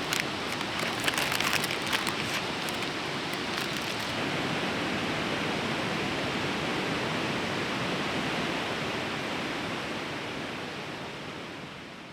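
Steady rush of a fast-flowing river, with a few light clicks in the first few seconds; the sound fades out near the end.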